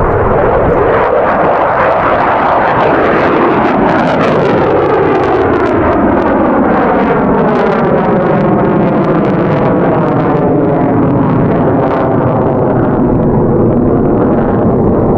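F-22 Raptor's two Pratt & Whitney F119 afterburning turbofans passing in a flyby: loud, steady jet noise with a sweeping, phasing quality that slides down in pitch and then back up near the end.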